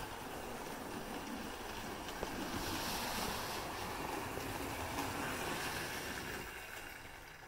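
Model GWR Prairie tank locomotive and its coach running along the track into the station: a steady whirring rumble of motor and wheels that swells a little in the middle and fades near the end.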